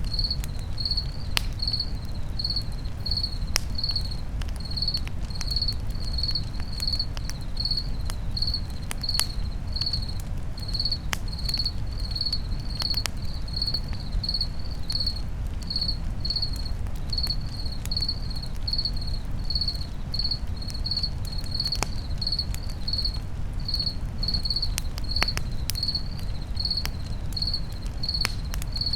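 Crickets chirping in a steady, regular pulse, about two chirps a second, over a campfire that gives off scattered sharp crackles and a low, steady rumble.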